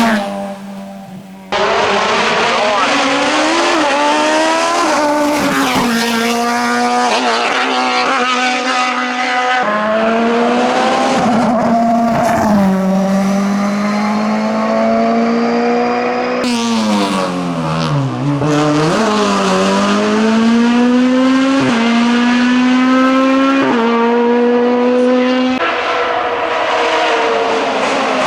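Racing car engine at full throttle, its pitch climbing and dropping in quick steps as it shifts up through the gears. Near two-thirds through it falls away with a few quick revs, as for braking and downshifting, then climbs through the gears again.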